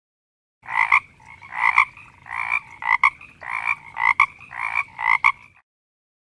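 A frog croaking in an even series of about eight croaks over some five seconds, each call ringing with a clear pitch.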